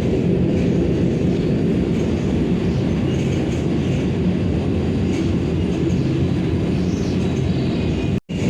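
Steady running rumble of a Vande Bharat electric train at speed, wheels on the track. The sound cuts out for an instant near the end.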